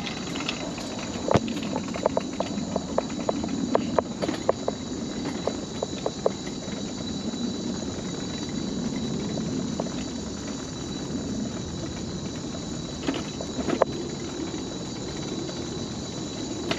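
Mobility scooter rolling along a wooden boardwalk: a steady rumble from the wheels, with a run of sharp clacks during the first six seconds as they cross the plank joints, and a few more near the end. A steady high-pitched tone sits over it throughout.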